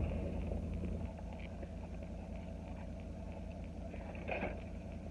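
Steady low hum of an idling car engine, with faint small handling sounds and a brief soft noise about four seconds in.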